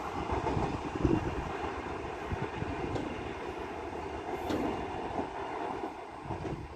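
Intercity express train's wheels rumbling and clattering on the rails as it moves away down the line, the sound slowly fading.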